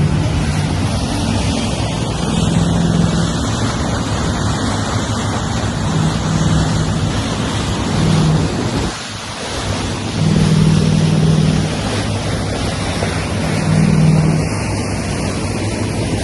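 A 16-metre motor yacht running at speed: a steady low engine drone under the rush of water along the hull and wind buffeting the microphone. The drone swells now and then, and the sound briefly drops about nine seconds in.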